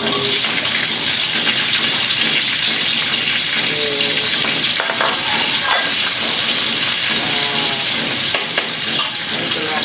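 Chili tipped into hot oil in a wok, frying with a loud, steady sizzle that starts all at once as it hits the pan.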